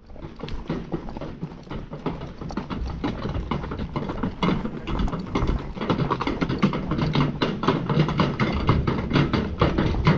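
Hooves of an Icelandic horse, a quick, continuous run of hoofbeats while the horse is ridden along a trail.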